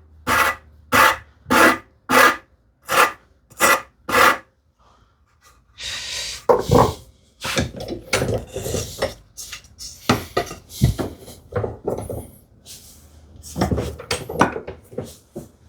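Hand rasp strokes on wood, rounding the corners of a wooden strip: seven short, even strokes about two-thirds of a second apart. After a short pause comes a stretch of irregular rasping and handling with a few knocks.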